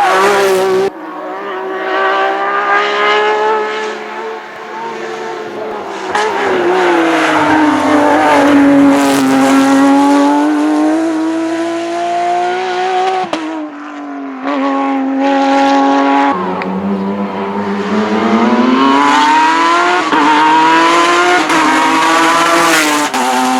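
Porsche GT3 rally car's flat-six engine driven hard: revs climb and fall over and over, with several sudden drops as it shifts gear or lifts off.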